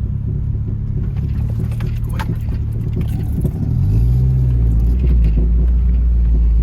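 Car engine running with a steady low hum; about four seconds in its pitch briefly rises, then it settles into a louder, deeper drone.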